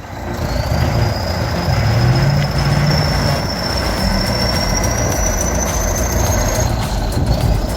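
Heavy machine running hard: a dense engine rumble with a thin high-pitched whine that slowly rises in pitch, dips briefly near the end, then rises again.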